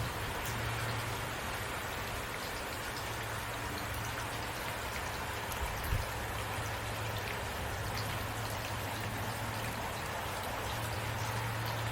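Heavy rain falling steadily, with a low hum underneath and a brief thump about halfway through.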